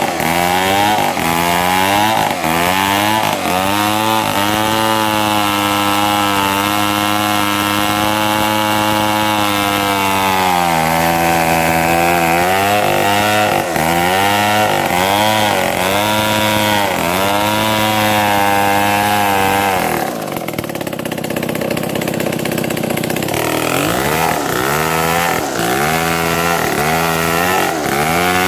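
Two-stroke chainsaw running at high revs cutting mahogany, its engine pitch wavering up and down with the load. About 20 s in the revs drop low for a few seconds, then rise again as cutting resumes.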